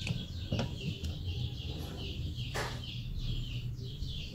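Small birds chirping in quick, repeated falling notes, with a couple of brief sharp sounds and a steady low hum underneath.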